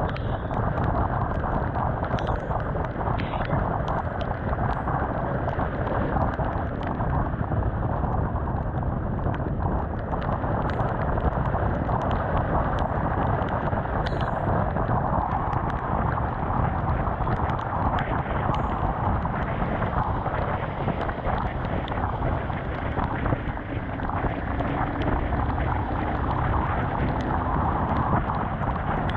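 Steady rush of wind and road noise from a Honda CBR 250R motorcycle riding at speed in the rain, heard through a GoPro's microphone, with small sharp ticks scattered throughout.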